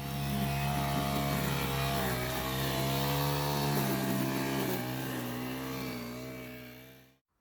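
Petrol lawn mower engine running steadily, its pitch sagging slightly now and then; it fades out near the end.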